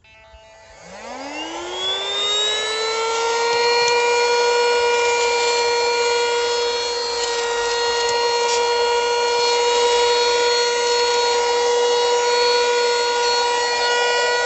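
SERVOMASTER cordless handheld vacuum's motor spinning up: a whine rising in pitch over about two seconds after it starts, then running at a steady high whine.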